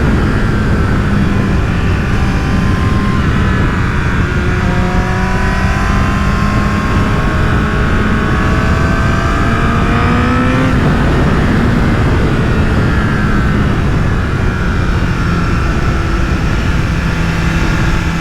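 Honda CBR1000RR Fireblade's 998 cc inline-four engine under way, steady at first, then rising in pitch as it accelerates for several seconds. The pitch falls back sharply about eleven seconds in and then runs steady again. Heavy wind noise buffets the microphone throughout.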